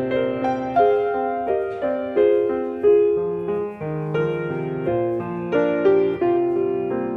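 Piano playing a gentle, moderate-tempo piece: a melody over lower accompanying notes, each note struck and then fading, with new notes about every half second.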